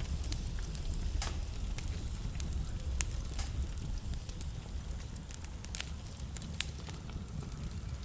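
Wood fire burning in a fireplace: a steady low rumble of flame with frequent small crackles and several sharper pops from the burning logs.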